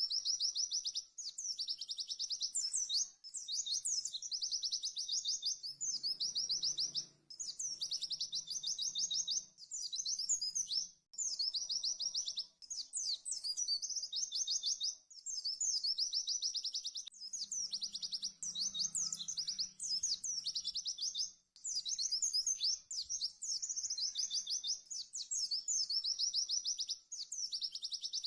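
White-eye (pleci) singing a fast, high trilled song, phrase after phrase with only brief gaps between them.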